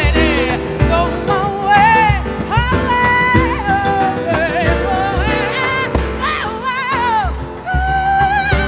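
Live band music with a sung melody over a steady bass pulse.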